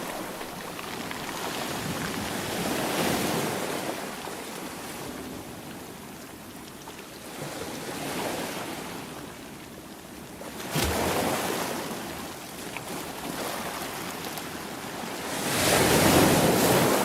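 Ocean waves breaking and washing on the shore, swelling and ebbing every few seconds, with the loudest wave near the end and wind on the microphone.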